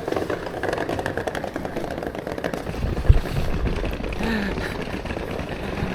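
Steady rattling clatter, with one sharp thump about three seconds in.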